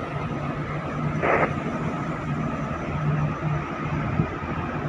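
Steady drone of a large ship's engine-room machinery running, a constant low hum under a loud, even rush of noise, with one short burst of noise a little over a second in.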